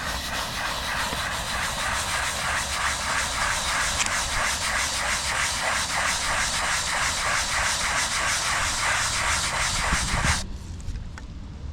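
Stiff scrub brush scrubbing a concrete driveway in quick back-and-forth strokes, about four a second, the bristles rasping on the rough surface; the scrubbing stops near the end.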